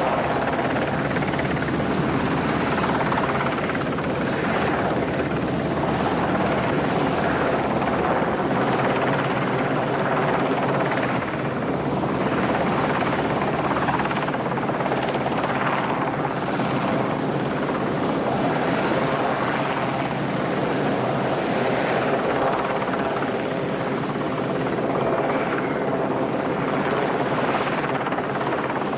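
A large engine running steadily: a constant drone with several steady tones and uneven swells of rushing noise.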